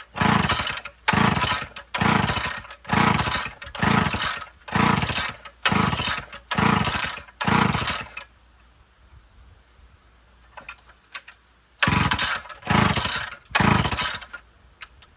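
Homelite Big Red XL chainsaw being pull-started over and over: the recoil starter rope is yanked about once a second, nine pulls in a row, a pause, then three more. The engine turns over on each pull but does not catch.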